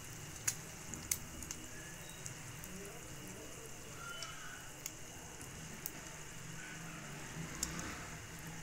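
Egg-and-milk-soaked bread slice frying in ghee in a frying pan: a steady sizzle with scattered sharp pops.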